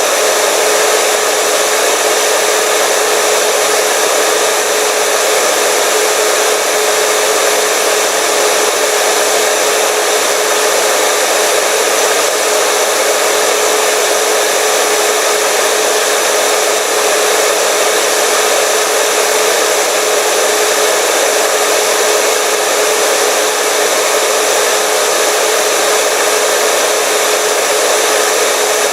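Hair dryer running steadily, a constant whooshing blow of air with a steady motor hum.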